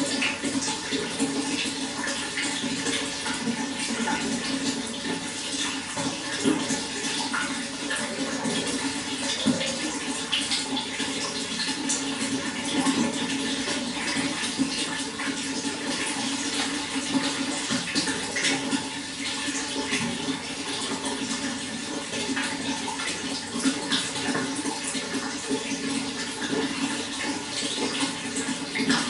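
Running water flowing and splashing steadily, with many small splashes over an even rush.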